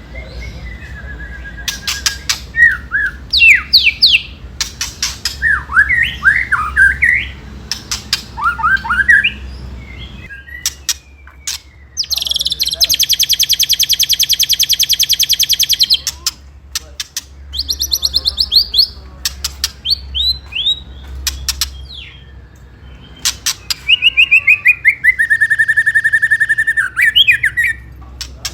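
White-rumped shama (murai batu) singing: sharp whistled notes and clicks, then a long, fast, even rattling trill (the 'ketrekan') starting about 12 seconds in and lasting about three and a half seconds. Another fast trill comes near the end.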